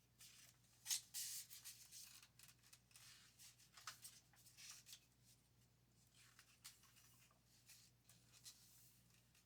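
Faint, scattered rustling and rubbing of paper as a picture book is handled and opened, over near-silent room tone.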